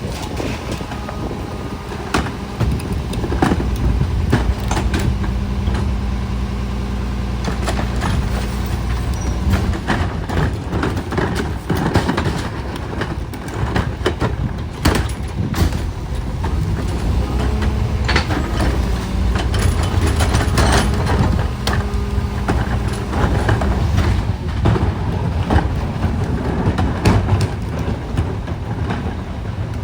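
Garbage truck's diesel engine running, with louder stretches, and many sharp metallic clanks and knocks.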